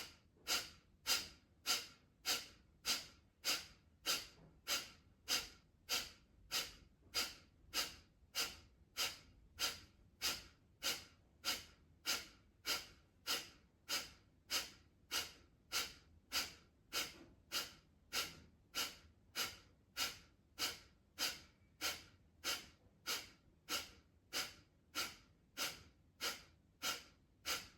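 Kapalbhati pranayama breathing: a woman pushes out short, forceful exhalations through the nose in a steady, even rhythm of somewhat under two a second. Each sharp puff of air is followed by a quiet passive inhale.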